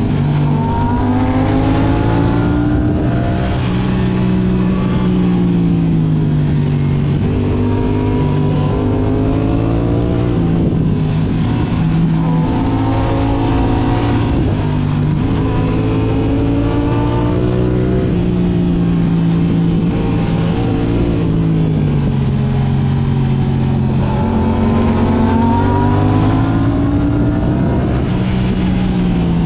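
Yamaha R6's 600 cc inline-four engine through an Akrapovic exhaust, revving up and dropping back over and over as the bike is ridden hard through a run of corners.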